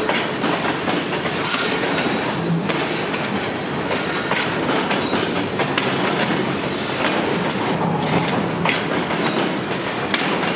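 Freight train cars rolling past, their wheels clicking over rail joints, with occasional faint high wheel squeal. The sound is steady and loud, then cuts off suddenly at the end.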